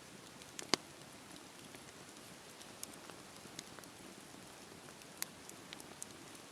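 Wood campfire crackling: a steady low hiss with sharp, separate pops, the loudest one just under a second in and smaller ones scattered after.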